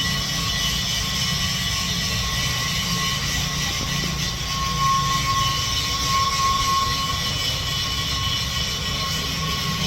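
Machinery running steadily: a low rumble under a constant high whine and hiss.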